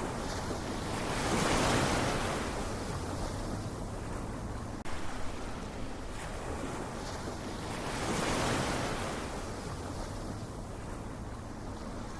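Ocean waves washing onto a shore: two waves break, about six seconds apart, each swelling to a rushing peak and then draining away in a long hiss.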